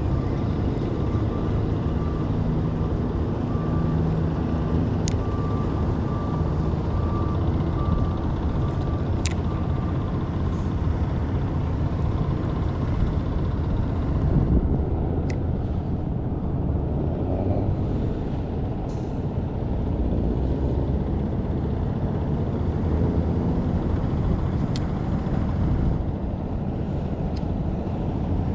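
A boat motor running steadily, with wind noise on the microphone. A faint, evenly repeated beeping goes on through roughly the first ten seconds.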